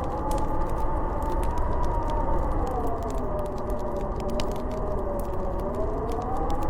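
Howling blizzard wind, a whistling tone that slowly rises and falls over a low rumble, with the crackle of a wood fire in a fireplace.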